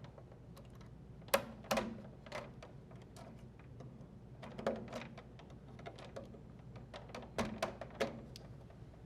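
Scattered light clicks and small rattles of wire connectors being handled and pushed onto the terminals of a GE dryer timer, with a few sharper clicks among them.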